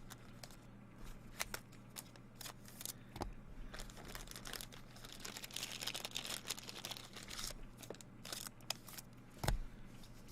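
Trading-card pack wrappers crinkling and tearing as packs are opened, with small ticks and taps of cards being handled and a soft knock near the end.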